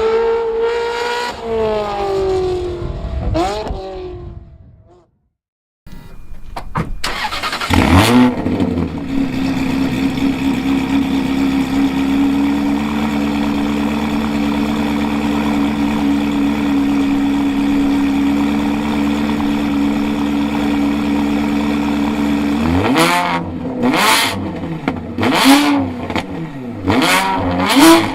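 Ferrari 360 Modena V8 through a Capristo exhaust: first running with its pitch rising and falling, then fading out; after a brief silence it catches with one sharp rev, settles into a long steady idle, and near the end is blipped several times in quick revs.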